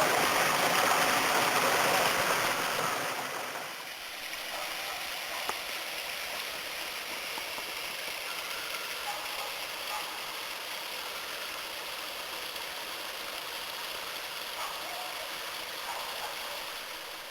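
Water rushing over small falls in a spring-fed creek. It is a steady rushing noise that drops to a quieter, steadier flow about four seconds in.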